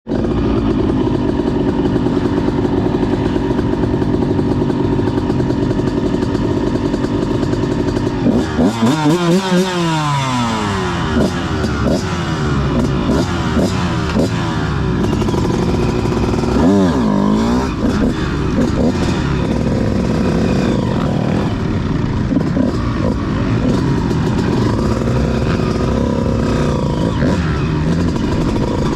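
Motocross bike engine running steadily for about eight seconds, then revving up and down repeatedly as the bike is ridden.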